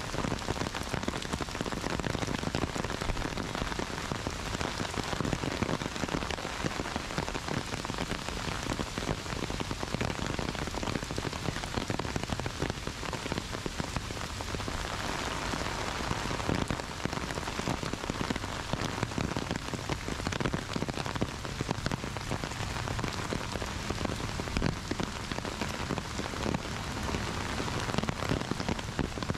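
Heavy rain falling steadily on paved paths, grass and trees: a dense, even hiss made of countless close drop impacts.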